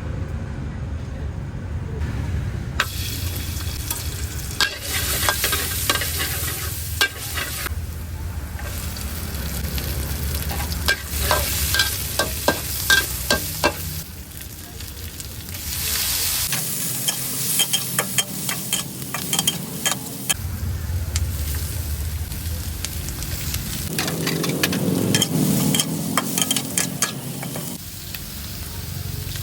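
Chicken gizzards and bell peppers sizzling as they are stir-fried in a hot pan, with repeated clacks and scrapes of a spatula against the pan as the food is tossed.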